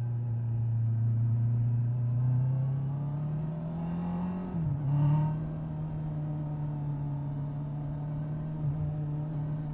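Honda 650 inline-four motorcycle engine under way, its pitch climbing slowly as it accelerates. About four and a half seconds in the pitch drops quickly at a gear change, then the engine holds a steady note.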